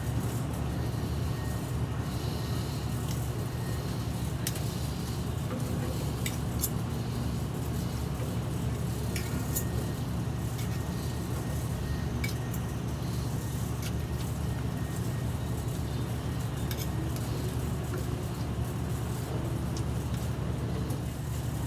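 Scattered light clicks and clinks of cutlery against a plate as a cooked whole chicken is carved, over a steady low background rumble.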